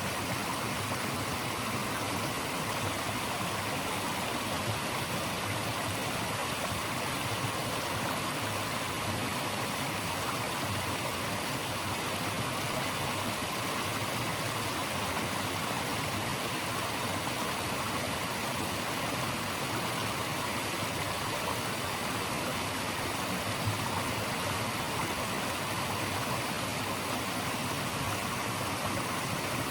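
Steady, unbroken rush of running water, an even hiss-like wash of sound with no changes.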